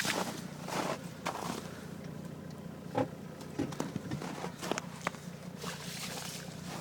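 Footsteps and scattered short knocks and crunches over a steady low hum.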